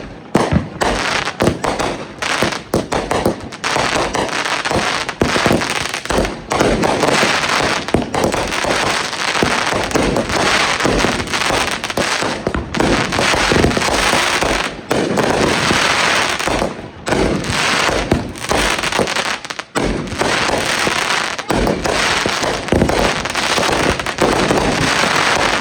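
Consumer fireworks going off in a dense barrage: rapid crackling mixed with bangs, with only a few brief lulls.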